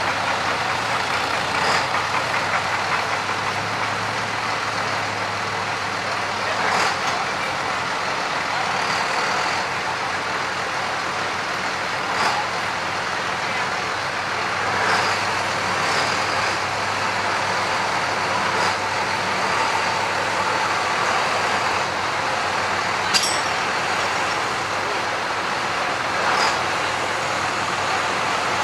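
Tractor engine running steadily without revving, with a few short knocks scattered through.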